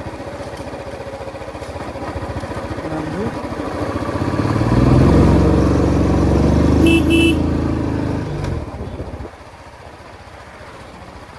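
Royal Enfield Classic 350 single-cylinder engine and exhaust running on the move, growing louder from about four seconds in, then dropping back quieter about nine seconds in. A horn gives two short beeps about seven seconds in.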